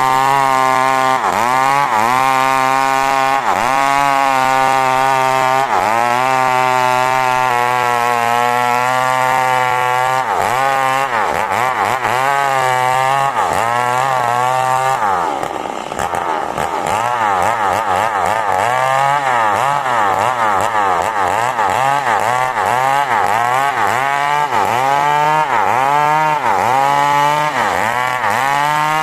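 Two-stroke chainsaw running hard while ripping coconut wood into boards, its engine pitch wavering up and down under the load. About halfway it drops lower for a moment, then climbs back up.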